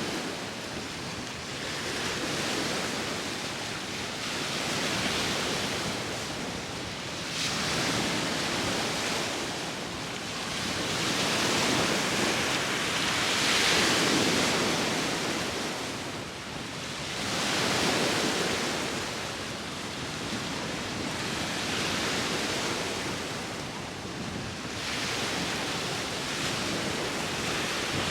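Sea waves washing onto the shore, the surf noise swelling and falling back every few seconds, with wind blowing across the microphone.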